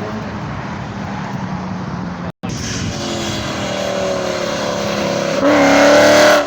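Car engine and exhaust running loud, with the pitch rising as it revs; the sound drops out for an instant about a third of the way in, and the loudest revving comes in the last second.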